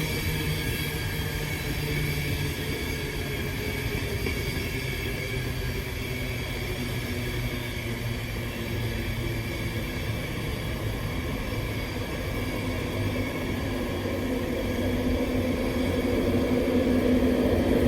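InterCity 225 train rolling along the platform behind its driving van trailer, with a steady rumble of coaches. The rumble and an electric hum from the Class 91 electric locomotive at the rear grow louder over the last few seconds as the locomotive draws near.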